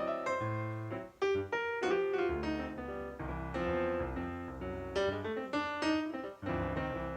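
Background piano music: a steady run of struck notes over low chords.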